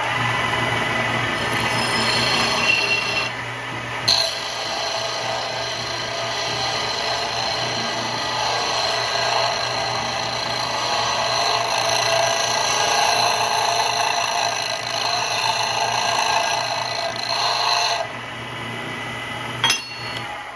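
Grizzly H8192 belt and disc combo sander's 1/3 horsepower motor running with a steady hum while a workpiece is ground against its 8-inch sanding disc, a dense rasping grind. The grinding eases off briefly about three seconds in and again near the end, each time with a sharp click.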